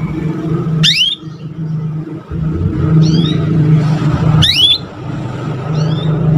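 Young canaries chirping in short, quickly rising calls. Two louder calls come about a second in and about four and a half seconds in, with fainter ones between. Under them runs a loud, steady low rumble.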